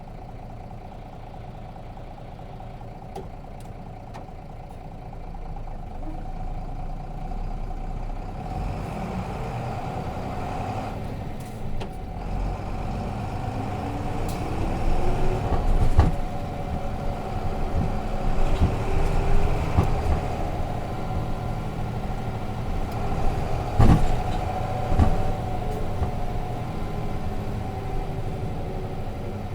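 Nissan Diesel FE6 inline-six diesel engine of a route bus, heard from inside the bus. It runs steadily at first, then grows louder as the bus pulls away, with the engine note rising twice. There are a few sharp knocks in the second half.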